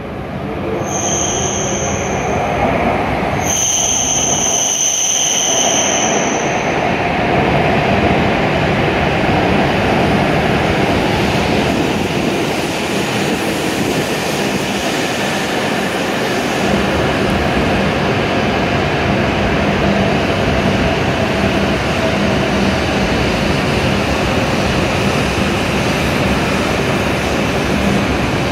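W7 series Shinkansen train pulling into the platform and slowing to a stop, a steady loud rush of the passing train throughout. Two high steady tones sound in the first six seconds.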